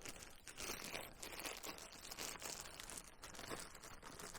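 Plastic bag crinkling faintly as raw ground beef is kneaded inside it: an irregular run of soft crackles.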